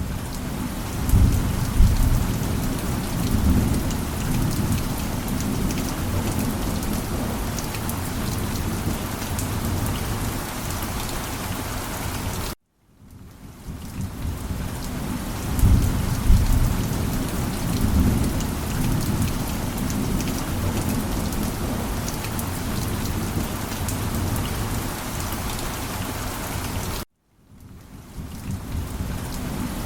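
Steady heavy rain with low rumbles of thunder. The sound cuts out abruptly twice, about halfway through and near the end, and each time fades back in with another thunder rumble, a repeating loop.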